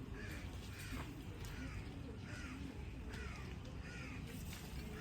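An animal calling over and over, a short rising-then-falling call repeated about every three-quarters of a second.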